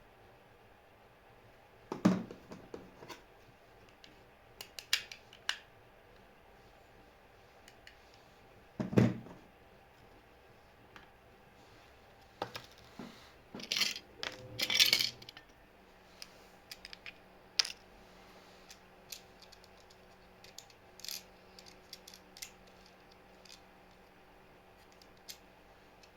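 Small hard objects knocked, set down and rattled on a work surface while tools and parts are handled: a few sharp knocks, a clattering stretch about halfway through, then scattered light clicks. A faint steady hum comes in about halfway.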